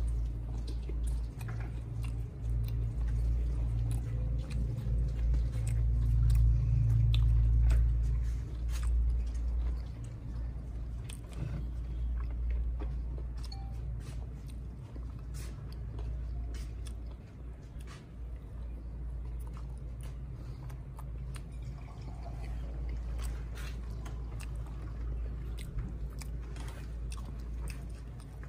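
Close-miked chewing and biting of mutton liver curry and flatbread, with many small wet mouth clicks scattered throughout. A deep low rumble sits under it and is loudest in the first ten seconds or so.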